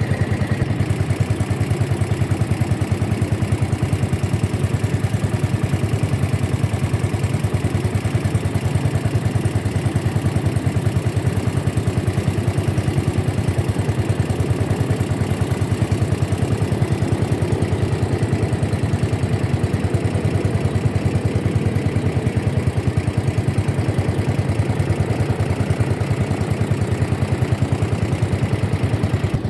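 Boat engine running steadily at an even speed, a fast regular pulse with a low hum.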